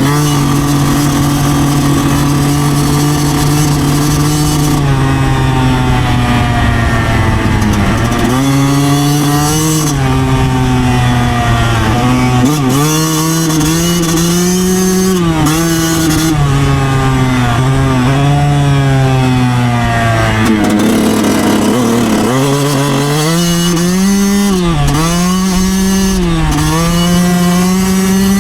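2009 Yamaha YZ125's 125cc two-stroke single-cylinder engine under way. It holds a steady pitch for the first several seconds, then the revs rise and fall over and over as the throttle is opened and closed.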